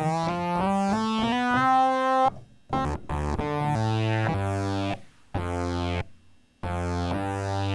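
Fender Rhodes electric piano played through an Electro-Harmonix Bass Mono Synth pedal on its Cosmic setting, giving a single-note synth tone. A run of notes steps upward, then notes start and cut off abruptly with short silences between them.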